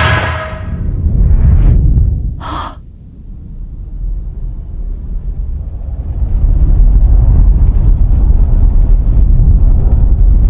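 Deep rumble from a film soundtrack. It dips about three seconds in, with a short swish about two and a half seconds in, then swells into a loud, steady rumble for the second half.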